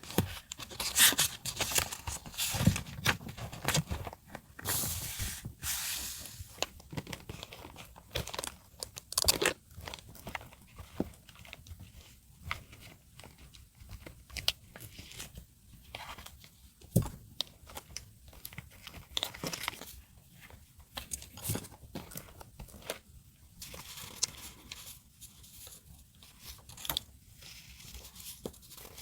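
Close-up paper-crafting sounds: paper, stickers and masking tape rustling, peeling and tearing, with scattered sharp taps and clicks at an irregular pace.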